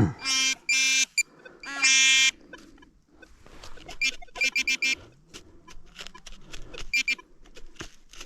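Metal detector signalling a buried target: three short, low, buzzy tones in the first two seconds, then bursts of rapid high-pitched beeps a few seconds later, with faint scrapes of digging between them.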